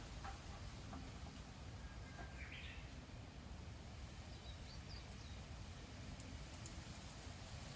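Faint outdoor ambience: a steady low rumble with a few brief, distant bird chirps, about two and a half seconds in and again around four to five seconds.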